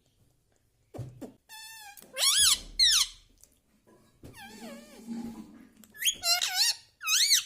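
Indian ringneck parakeet giving a run of high squawks and chattering calls, their pitch rising and falling in arches.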